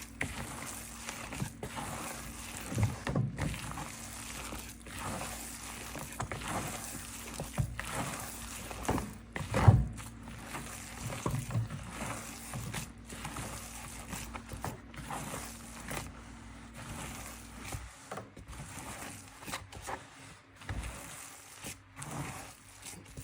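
Minced chicken kebab mixture being mixed in a bowl: irregular soft squelches, scrapes and knocks, with a sharper knock about ten seconds in. A steady low hum runs underneath and stops about eighteen seconds in.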